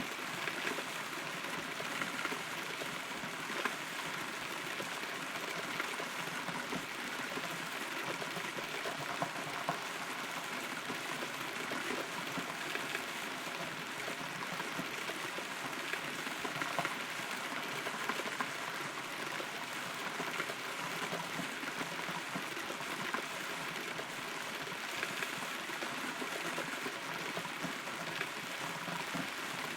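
Steady rain falling, with many small irregular drips and patters on wood, heard from inside a hollow rotten tree.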